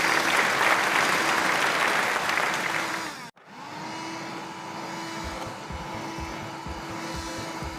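A steady motor whir with a loud hiss and a held tone, cut off abruptly about three seconds in. A quieter steady hum follows, and a low pulsing beat starts about two seconds later.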